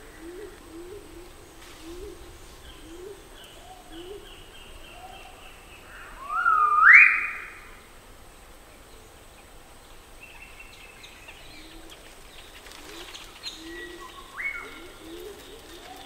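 Magnificent riflebird calling: a loud whistle that rises in steps a little before the middle, and a fainter rising whistle near the end. Another bird's low notes repeat underneath, over a steady high insect drone.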